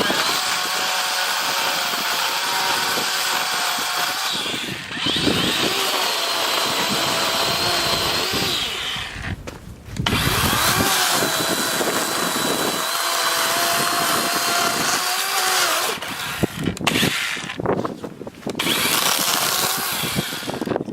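DeWalt 20V cordless chainsaw running with a steady electric whine as it cuts through wood, its pitch dipping under load. It runs in long stretches, stopping briefly about nine seconds in and several times near the end.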